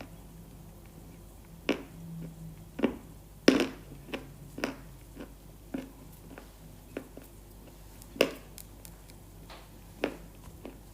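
Close-miked crunching bites: sharp, irregular cracks about a second apart, with softer chewing clicks between.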